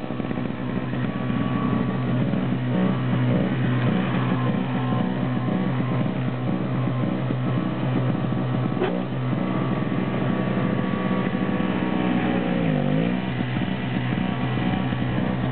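An engine running steadily, its pitch sagging briefly near the end and then recovering.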